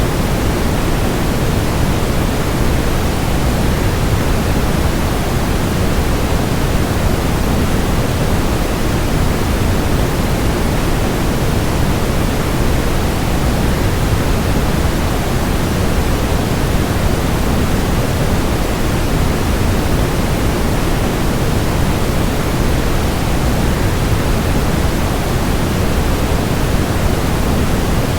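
Waterfall rushing blended with white noise: a steady, deep, unbroken hiss that never changes.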